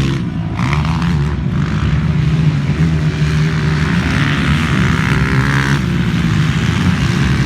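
Motocross bikes of the 200cc class running on the track, a continuous engine drone, with a louder stretch from about four to six seconds in as a bike comes nearer.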